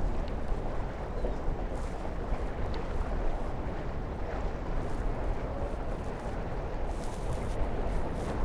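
Wind buffeting the onboard microphone of a Tornado racing catamaran under sail, with water rushing along the hulls: a steady, rumbling rush with a few brief hissy splashes near the end.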